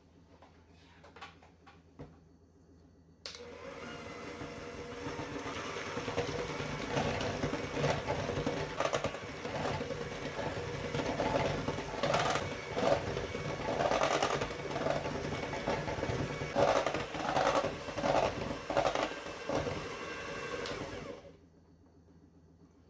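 Electric kitchen mixer running: it switches on abruptly about three seconds in, runs steadily with uneven swells in loudness, and cuts off near the end.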